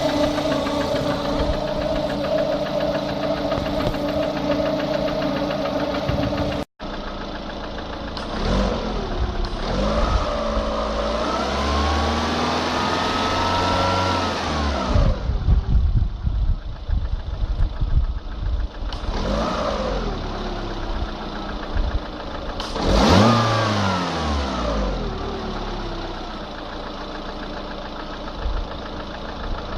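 Lada Kalina engine idling steadily, then, after a momentary break about six and a half seconds in, revved several times, the pitch rising and falling with each rev. The car has a knock (стук) that the owner is recording.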